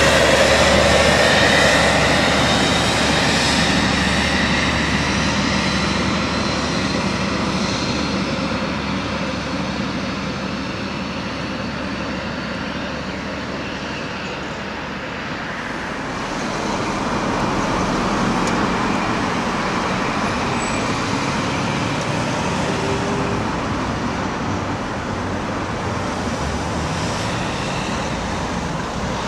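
InterCity 125 High Speed Train running along the line: diesel power cars and wheels on the rails making a loud, continuous noise that eases off slightly and then builds again about halfway through.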